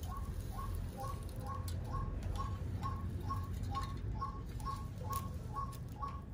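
A bird calling: a short, clipped two-note call repeated evenly, about twice a second.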